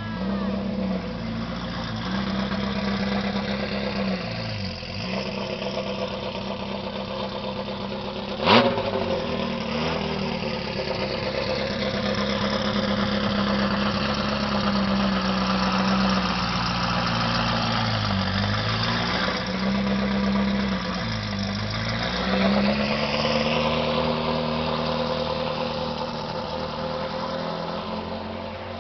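Ferrari F40's twin-turbo V8 idling steadily, its note sagging and recovering briefly a few times. A single sharp knock about eight and a half seconds in.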